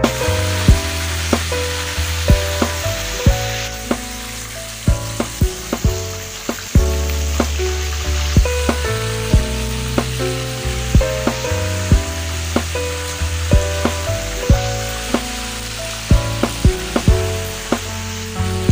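Chicken pieces frying in hot oil in a frying pan, a steady loud sizzle. Background music with a bass line and sharp beats runs under it.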